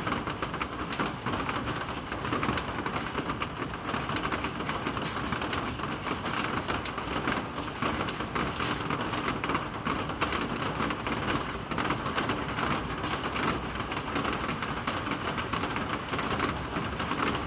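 Steady rain falling, a dense even patter of many fine drop impacts.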